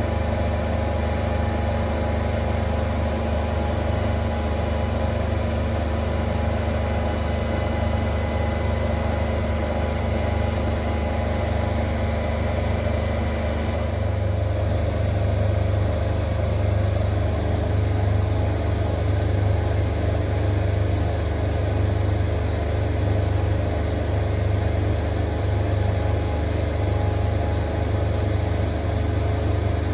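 Zanker EFX 4875 washing machine in its final spin: the drum and motor run with a steady hum and several steady whining tones. About halfway through, the tones shift and the low hum grows stronger.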